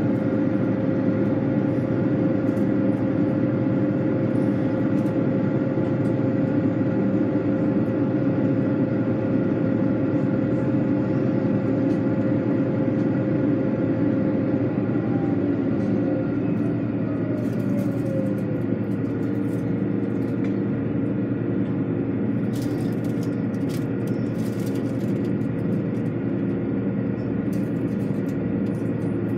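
A motor or engine running steadily with a many-toned hum. About halfway through, one of its tones slides a little lower in pitch and then holds.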